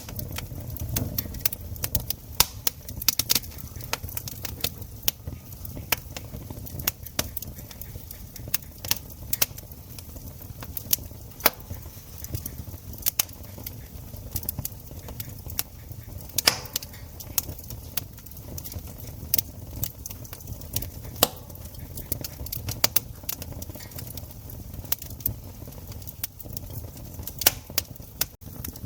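Wood campfire crackling: irregular sharp pops and snaps over a low, steady rumble of the burning fire, with a few louder pops scattered through.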